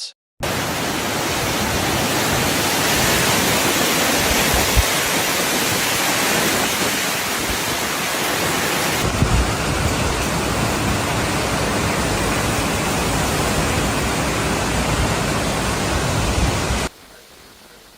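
Cyclone wind and heavy rain as a loud, steady rushing noise, changing character about halfway through and dropping suddenly to a much quieter background near the end.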